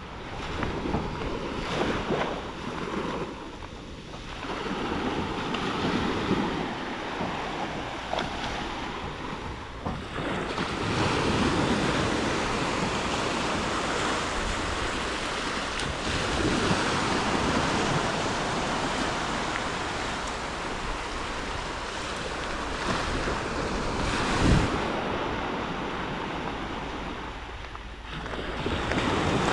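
Black Sea surf breaking and washing up the beach, swelling and ebbing, with wind buffeting the microphone. A single thump about three-quarters of the way through.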